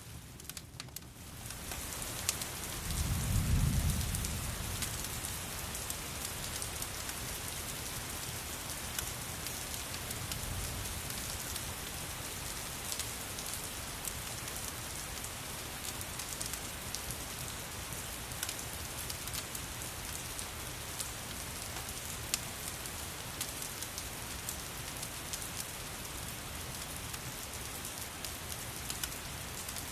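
Steady rain falling on a surface, mixed with scattered small crackles from a fireplace. It is quieter for the first second or so, then swells back, and a low rumble of thunder comes about three seconds in.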